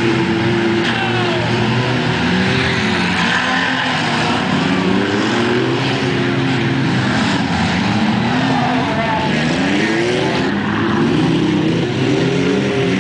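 Several junk cars' engines revving at once in a short-track race, their pitches rising and falling as they accelerate and ease off.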